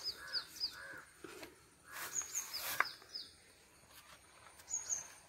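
Birds calling: a small bird repeats a phrase of high, quickly falling whistled notes several times, and crows caw early on. About two to three seconds in there is a brief rustle and a sharp click.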